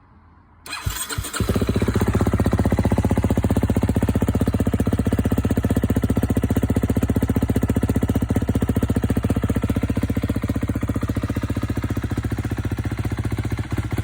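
2023 KTM 250 SX-F single-cylinder four-stroke motocross engine cold-started: a brief burst of cranking about a second in, then it catches and settles into a steady, evenly pulsing idle.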